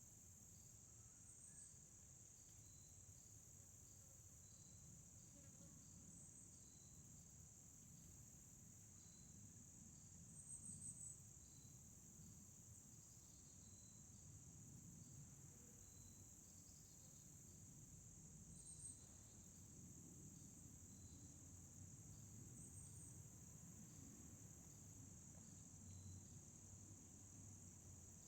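Faint, steady high-pitched chorus of insects, with short chirps repeating about once a second, over a low rumble of outdoor background noise.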